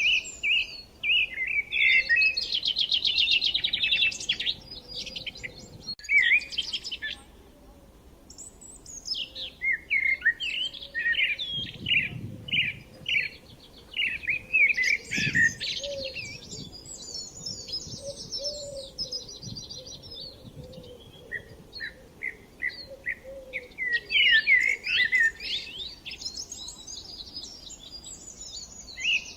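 Several songbirds singing at once, fast chirps, trills and whistled phrases overlapping almost continuously, with a brief lull about seven seconds in.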